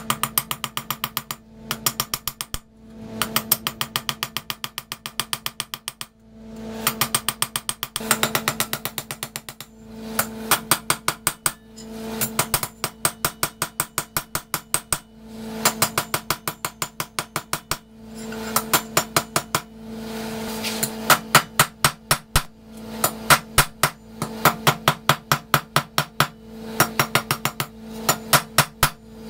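Hand hammer striking steel on an anvil: quick runs of several blows a second, broken by short pauses, as the broken wrench is forged out. A steady hum runs underneath.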